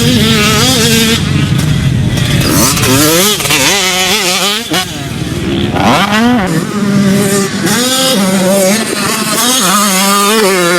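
250cc two-stroke motocross bike engine being ridden hard, its pitch rising and falling over and over as the throttle is opened and shut through the gears.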